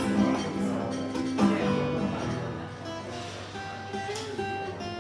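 Live music: chords strummed on a stringed instrument, changing about once a second, with sharp strokes at the start and again about one and a half seconds in.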